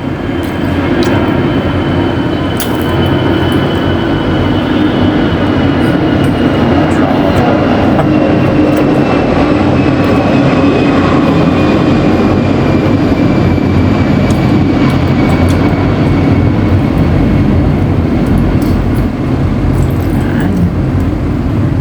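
Loud steady rumbling noise with a faint whine that slowly falls in pitch across the stretch.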